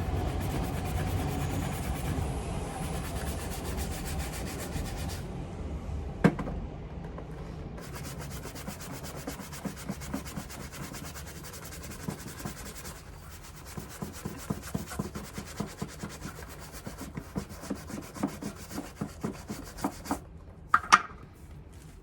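Leather of a Paraboot Michael shoe being rubbed in quick, even back-and-forth strokes during shoe polishing, with short pauses between spells. There is a single sharp knock about six seconds in and two clicks near the end.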